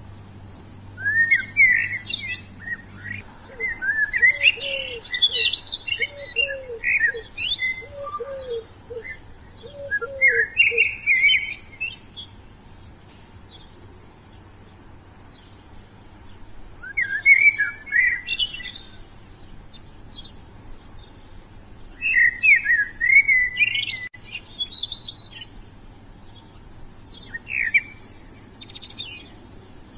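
Songbird singing in bursts of quick chirps and trills, a new phrase every few seconds. A softer, lower series of short repeated notes runs beneath it in the first third.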